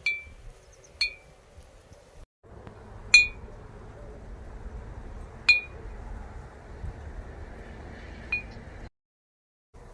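A bird-scaring noisemaker clinking: five sharp metallic strikes at uneven intervals, each ringing briefly on the same clear tones, over a low steady background noise.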